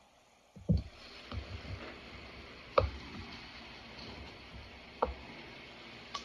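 Eating crunchy green mango close to the microphone: five sharp, separate crunching clicks over a steady hiss that starts about half a second in, the loudest about three seconds in.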